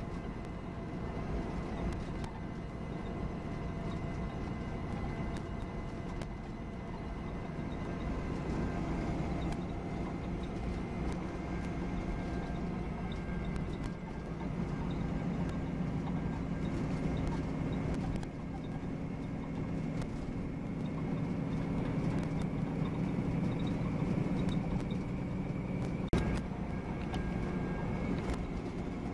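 Interior running noise of a Volvo B9R coach: its diesel engine and the road rumble carry on steadily while the coach is under way. The engine note grows stronger about halfway through, and a faint thin high tone runs over it.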